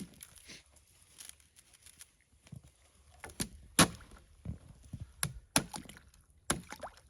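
A series of irregular dull knocks and thuds, about a dozen, coming thicker in the second half, over a faint steady high hiss.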